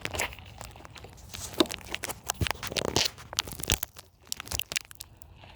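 Handling noise from a phone being adjusted in its mount: irregular clicks, scrapes and rustles close to the microphone.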